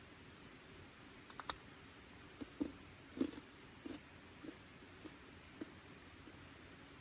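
Steady, high-pitched chirring of insects, typical of autumn crickets, with a handful of soft, dull taps and knocks about two to five seconds in.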